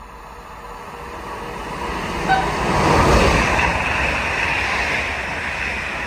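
A vehicle passing by: a rumbling, rushing noise that builds, peaks about halfway through and then fades away, with a brief high squeak just before the peak.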